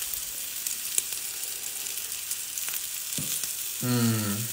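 Chicken meatballs pan-frying in oil in a small cast-iron skillet: a steady sizzling hiss with scattered small pops and crackles.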